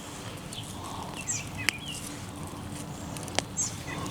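Small birds chirping here and there in the background over a steady outdoor rumble, with two sharp clicks about a second and a half apart.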